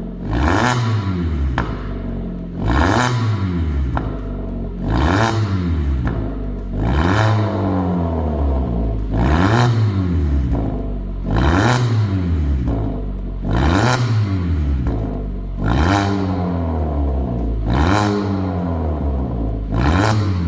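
Hyundai Sonata New Rise's engine revved over and over through a full custom variable valve exhaust with the valves open, about one rev every two seconds. Each rev climbs in pitch and falls back again.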